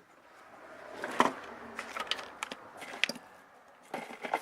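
Rummaging through tools and objects: a low rustle with a few sharp knocks and clicks, the loudest about a second in.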